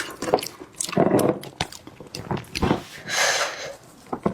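Close-miked eating sounds: a person chewing seafood with wet smacks and clicks, irregular and close together, with a longer hissy sucking sound about three seconds in.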